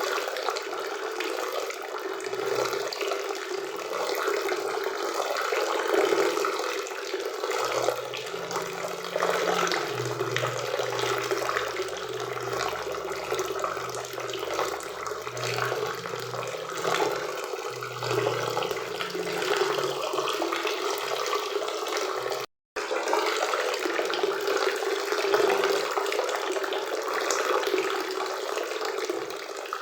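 Waterfall and river water rushing steadily. A faint low hum joins in from about a quarter of the way through until about two-thirds through, and the sound cuts out for an instant about three-quarters through.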